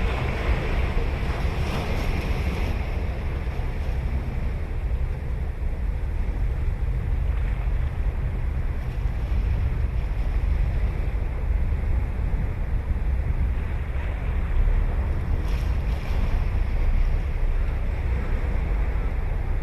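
Ocean waves breaking and washing ashore, louder in the first few seconds, over a steady low rumble of wind on the microphone.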